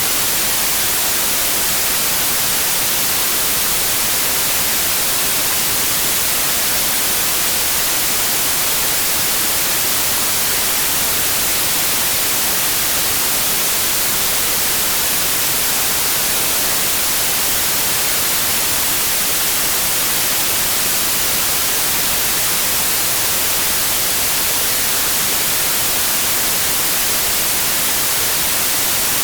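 Steady white noise: an even, unchanging hiss that is brightest in the treble, with no tones or breaks.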